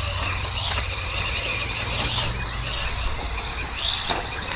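Electric motor of a 1/10-scale RC buggy running on a 2S LiPo, a high whine that rises and falls over and over as the throttle is worked.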